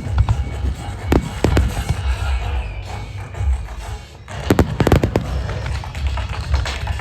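Aerial fireworks shells bursting: a few separate booms in the first two seconds, then a quick cluster of bangs about four and a half seconds in, with a low rumble between them.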